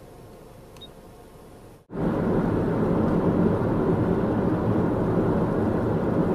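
Faint steady background hiss, then after a brief break about two seconds in, the loud, steady running rumble of a Choshi Electric Railway 2000-series train.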